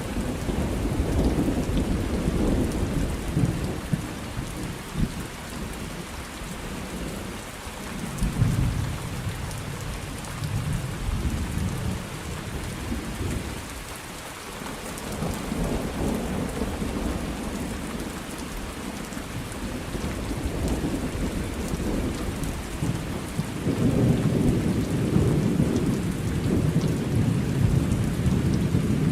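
Thunderstorm: steady rain falling, with long low rumbles of thunder that swell and fade several times, the strongest near the end.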